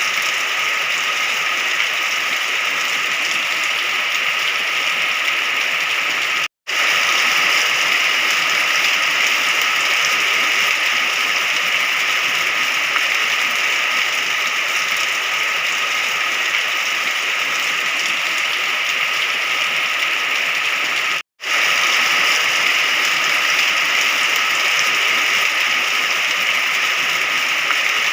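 Steady rain, an even hiss, broken twice by a split-second gap of silence.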